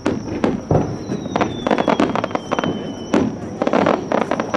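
Fireworks display: rapid bangs of aerial shells bursting, with dense crackling clusters between them. About a second in, a thin whistle starts and glides slowly down in pitch for about two seconds.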